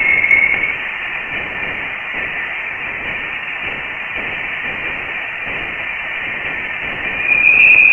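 Voyager 1's interstellar-space recording turned into audio: a steady static-like hiss with a brighter whistling band on top. It grows louder near the end. Scientists think it may come from plasma waves travelling through space.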